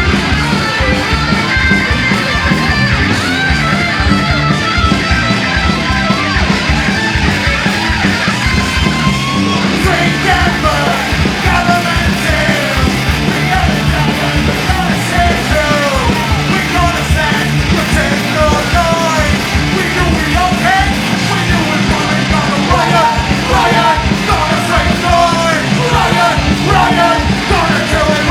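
A punk rock band playing live and loud, with a shouted lead vocal coming in about ten seconds in.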